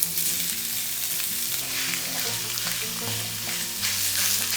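Raw beef pieces sizzling in a hot pot with no oil, with small scraping clicks from stirring. Soft background music with steady notes underneath.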